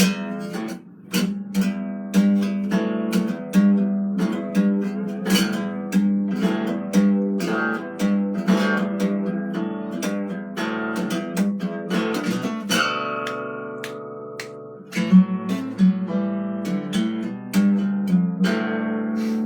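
Solo acoustic guitar played fingerstyle, a run of plucked notes and strummed chords, with one chord left ringing for a couple of seconds past the middle.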